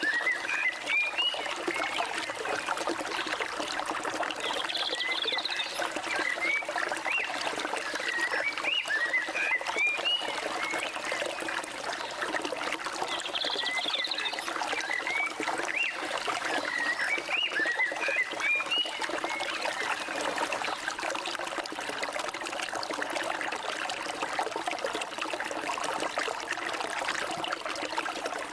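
Flowing water running steadily, with birds calling over it in quick runs of short rising chirps and, twice, a brief higher buzzy call.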